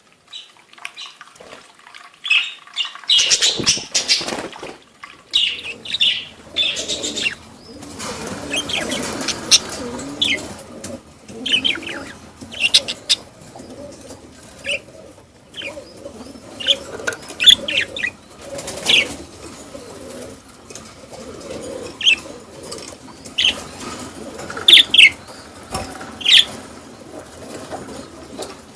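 Budgerigars chirping in short, scattered calls, with bursts of wing flapping.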